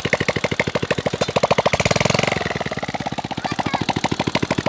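Small engine running with a steady, rapid chugging beat of about a dozen pulses a second, with a brief louder rush of noise about two seconds in.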